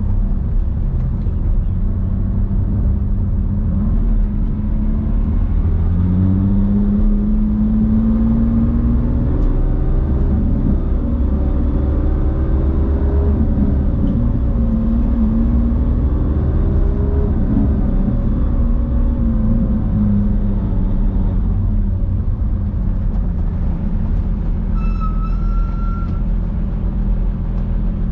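Porsche 997 GT3's flat-six engine running at fairly low revs, its pitch rising as the car accelerates for a few seconds and then easing and picking up again. A short high beep sounds near the end.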